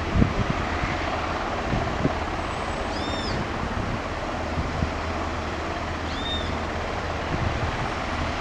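Steady outdoor background rumble with wind buffeting the microphone. A bird's short, high, rising-and-falling call repeats about every three seconds.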